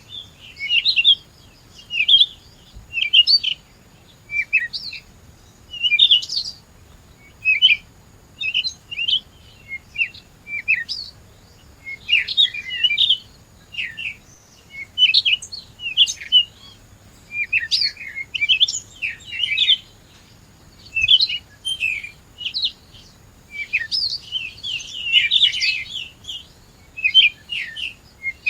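A songbird chirping in short, quick phrases, one after another about every second, at times in denser bursts.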